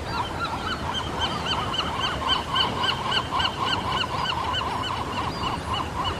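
Pelicans calling together in a colony: many short, repeated honking calls overlapping in a dense, steady chorus.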